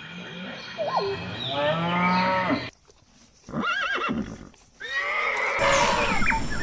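Farm animals calling in several short clips cut one after another, each call breaking off abruptly at a cut.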